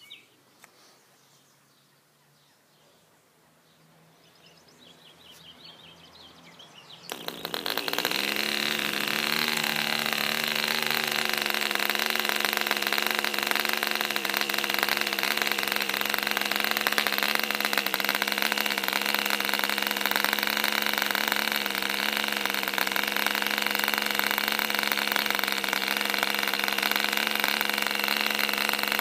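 MP Jet 040 model aero diesel engine (0.66 cc, Mills type) catching about seven seconds in after a few quiet seconds, picking up speed and then running steadily.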